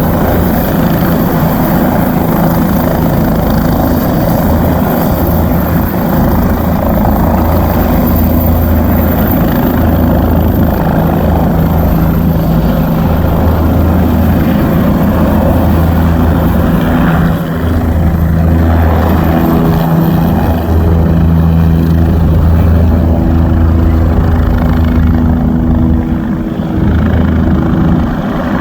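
Helicopter running loud and steady, its rotor and engine making a continuous low drone.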